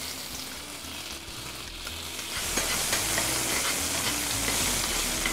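Chopped chikuwa, cherry tomatoes and basil sizzling in oil in a frying pan as they are stirred. The sizzle grows louder about two and a half seconds in.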